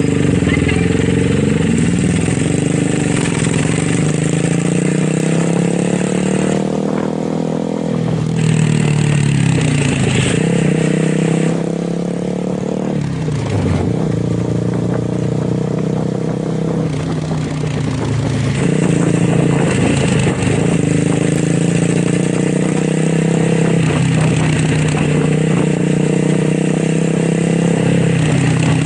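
Motorcycle engine and exhaust running under way, the revs climbing and then dropping sharply several times, as at gear changes.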